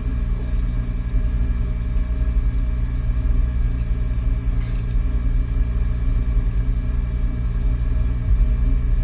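Peugeot 106 rally car's four-cylinder engine idling steadily, heard from inside the cabin.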